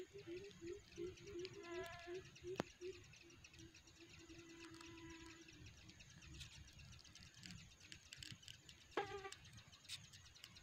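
Faint bird calls: a quick run of low repeated notes over the first three seconds, a held low note about four and a half seconds in, and two short sharper calls, about two and nine seconds in.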